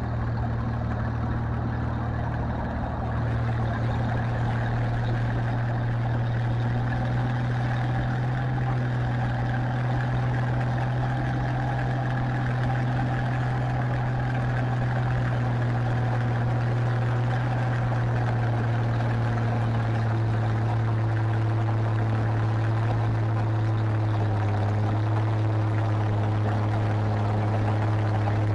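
Tractor engine running steadily under load, a low, even drone that gets slightly louder about three seconds in.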